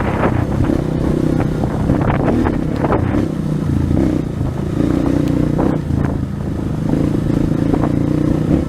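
230 cc trail motorcycle's engine running under way, the throttle opening and easing off so its pitch rises and drops a few times, with scattered short knocks from the bike over the rough road.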